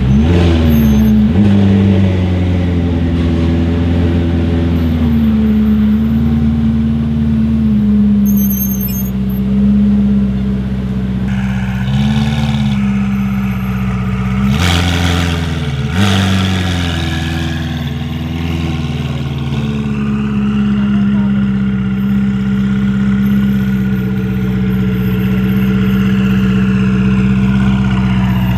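Ferrari 488 Pista's twin-turbo V8 through a Novitec exhaust, running at low revs as the car rolls slowly along. Its revs rise briefly just after the start and twice more around the middle, settling back each time.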